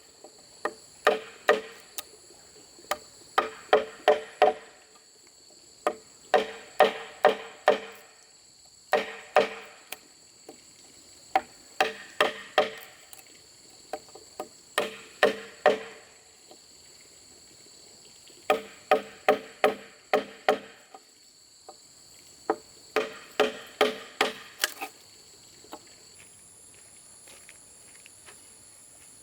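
Hammering on bamboo in quick bursts of three to six ringing strikes, with short pauses between bursts; the strikes stop about 25 seconds in. Insects drone steadily at a high pitch underneath.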